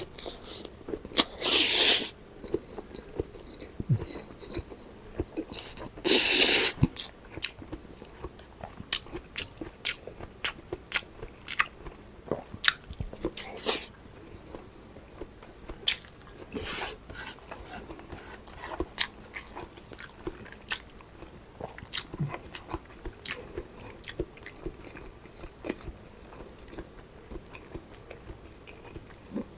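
Close-miked eating: a person chewing and biting with wet smacks and clicks, and two louder crunchy bites, one about two seconds in and one about six seconds in.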